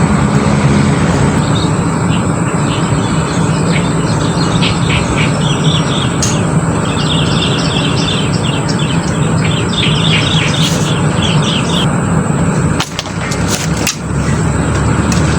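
Birds chirping in quick repeated runs over a loud, steady low rumble, with a few sharp clicks near the end.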